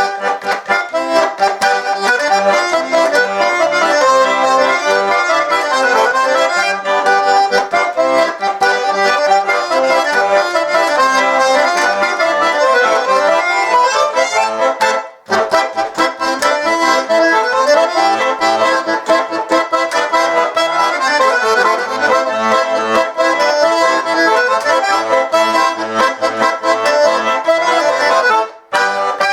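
Kirillov garmon, a Russian button accordion, playing a brisk traditional tune with quick runs of notes over a steady accompaniment. The music breaks off twice for a moment, about halfway through and near the end.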